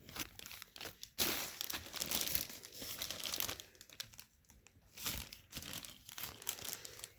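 Packaging crinkling and rustling in irregular bursts as it is handled and pulled off the ceiling fan's motor housing, starting sharply about a second in.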